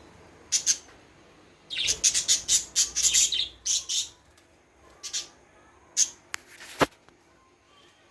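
Small pet parrots chirping in an aviary: sharp high chirps, a quick run of them from about two to four seconds in, then a few single chirps, with a loud sharp click near the end.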